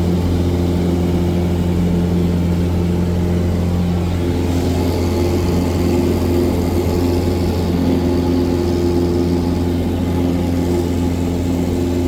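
Cessna 177 Cardinal's piston engine and propeller running steadily, with the engine note changing about four seconds in.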